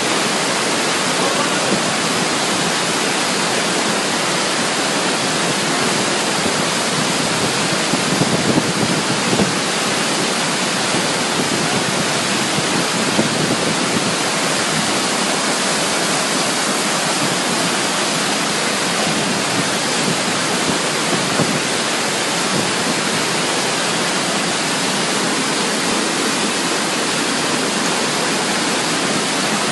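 Steady rushing of a flash flood: a torrent of floodwater pouring through the street, possibly with heavy rain.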